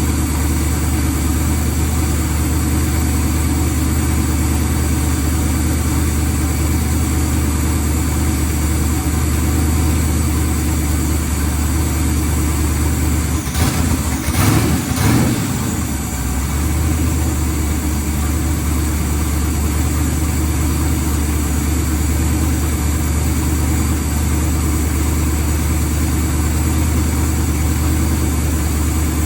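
1981 Chevrolet Malibu's twin-turbo engine idling steadily, run to see whether its intake makes enough vacuum to work the brake booster. Halfway through, a short, rougher burst of noise briefly breaks the steady hum.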